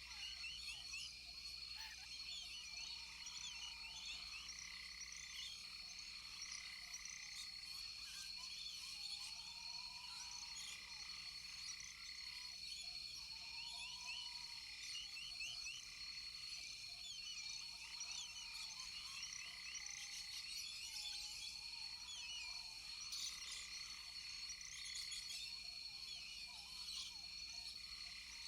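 Rainforest chorus of frogs and insects: a steady high insect whine under many rapid chirps, with a lower arched call repeating every couple of seconds.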